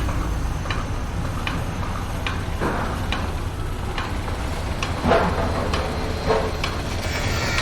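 Construction-site machinery running with a steady low rumble, over which a sharp metallic tick repeats about every 0.8 seconds. A few louder clanks stand out, about a third of the way in, past the middle and near the end.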